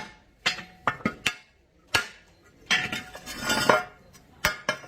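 Metal hand tools and truck parts being struck and handled: about half a dozen sharp, ringing metallic knocks, irregularly spaced, with a longer jangling clatter in the middle.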